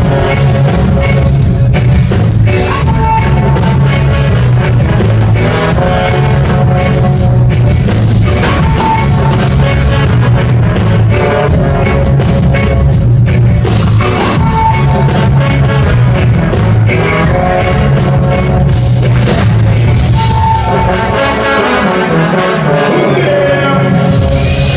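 Live band playing loud amplified music, with a heavy steady bass line, drums and short repeated high melodic notes.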